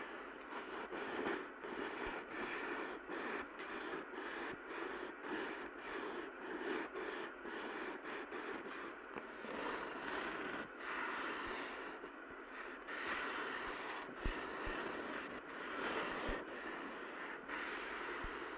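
Broom sweeping, a steady run of brushing swishes at about two strokes a second.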